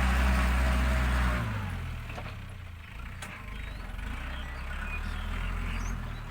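Iseki NT554 diesel tractor engine running steadily while ploughing, loud at first, then dropping to a much quieter, lower running about a second and a half in.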